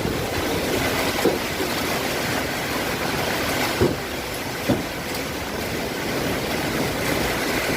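Strong storm wind and heavy rain making a dense, steady rushing noise. Gusts buffet the microphone with a few low thumps, about a second in and twice more near the middle.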